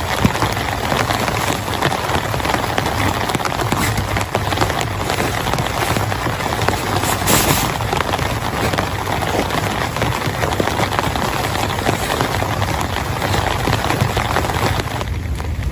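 Heavy rain falling and pattering steadily on a surface, a dense hiss full of fine drop ticks; the hiss thins near the end.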